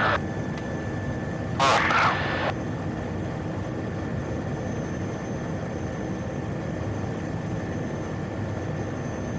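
Steady drone of the PAC 750XL's turboprop engine and propeller at ground power, heard over the aircraft's radio/intercom audio feed. A brief burst of voice or radio noise comes about two seconds in.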